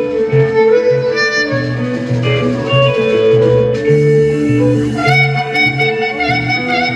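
Live band playing an instrumental blues passage: a walking bass line and guitar, with a harmonica coming in about five seconds in on a long, wavering note.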